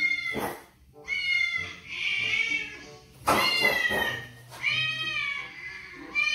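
A cat meowing over and over: about six high, drawn-out meows, each rising and then falling in pitch.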